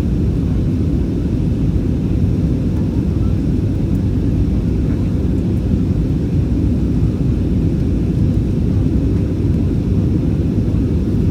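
Steady low rumble of jet airliner cabin noise, engines and airflow heard from inside the passenger cabin during the descent to land.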